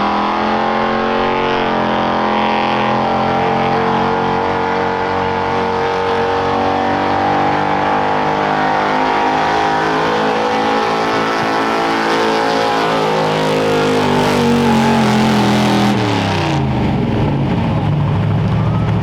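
Pulling truck or tractor engine running hard at steady high revs down the track, then falling in pitch over a few seconds as the throttle comes off, settling to a lower, steady run near the end.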